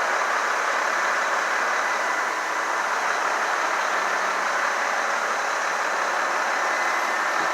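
Steady street noise from vehicles running nearby, an even hiss-like rumble with no distinct events.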